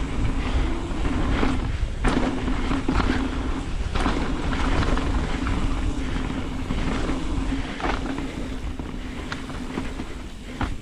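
Mountain bike riding fast down a rough trail: continuous tyre and wind noise with sharp knocks and clatter from the bike over bumps, and a steady hum underneath.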